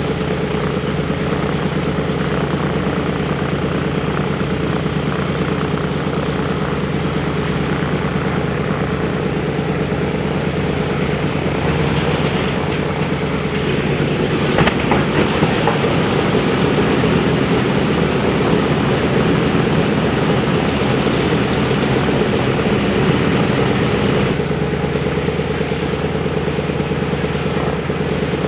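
Wright R-1820 Cyclone radial engines of a B-17 Flying Fortress running steadily at low power. From about twelve seconds in, for about twelve seconds, they grow louder and rougher, with a few sharp pops around fifteen seconds in, then settle back.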